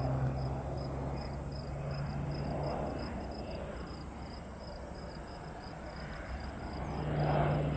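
Engine drone of a low-flying crop-duster airplane, fading away a few seconds in and growing again near the end, with crickets chirping in a steady pulsing rhythm.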